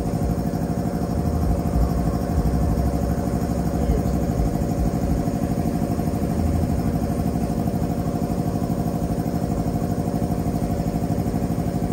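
A motor running steadily at idle, with a fast, even pulse.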